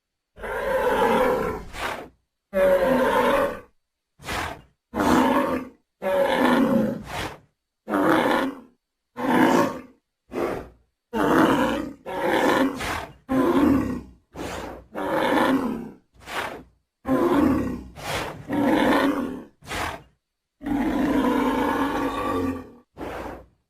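Creature roar sound effects for a giant prehistoric bear: about twenty short roars and grunts, one after another, each cut off cleanly into silence. The longest, roughly two seconds, comes near the end.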